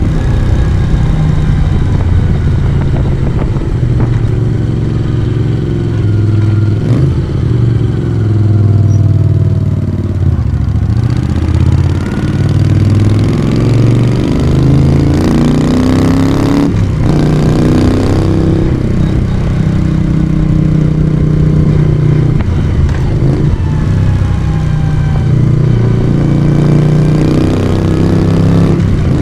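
Moto Guzzi V35's air-cooled 90-degree V-twin engine and exhaust running under way, its revs rising and falling, with two brief dips in the sound.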